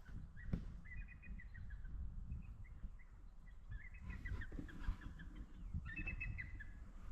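Bald eagles calling: runs of short, high chirping notes that step down in pitch, repeated several times, over a low steady rumble.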